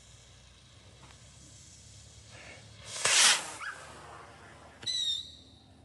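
A firework launches with a loud hissing whoosh about three seconds in and sails off. A brief high-pitched squeal follows near the end.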